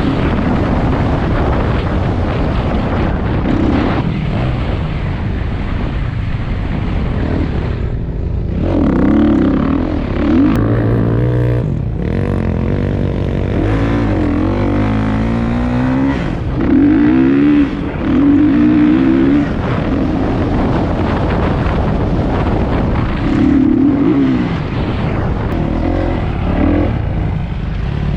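Single-cylinder off-road engine under a rider, revving up and falling back again and again as the throttle opens and closes, over steady rushing wind noise.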